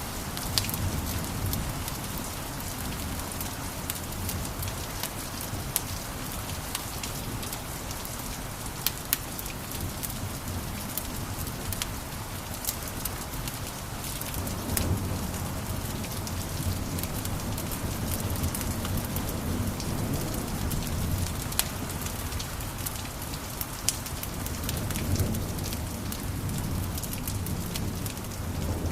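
Wood fire in a fireplace crackling: a steady hiss with frequent sharp pops and snaps, over a low rumble that swells a little about halfway through and again near the end.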